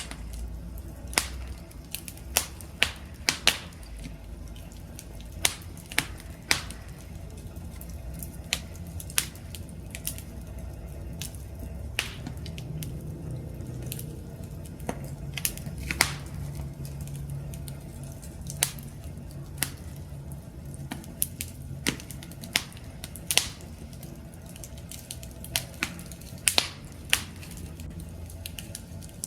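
Wood fire crackling: irregular sharp pops and snaps of burning logs over a low steady rumble of flames.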